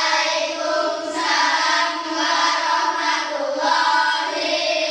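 A group of children singing together in unison, in short phrases about a second long.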